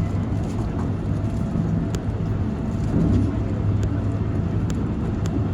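Steady low rumble of a Keikyu Main Line train, with a faint steady tone above it and a few sharp clicks.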